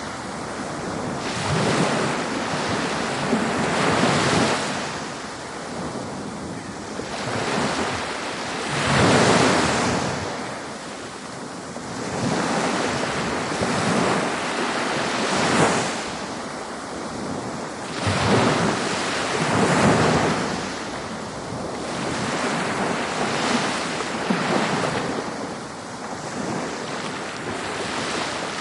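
Ocean waves breaking and washing up a beach, the surf swelling and ebbing every few seconds, with wind on the microphone.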